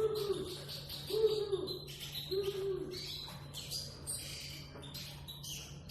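Eurasian siskin singing: a busy run of high twittering chirps and trills. In the first three seconds three low, arched hooting notes come about a second apart under the song, over a steady low hum.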